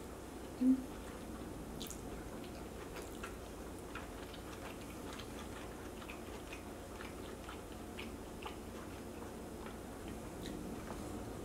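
Close-miked chewing of a soft, creamy chicken-and-rice dish, with small wet mouth clicks and smacks scattered throughout. A short hum sounds about a second in.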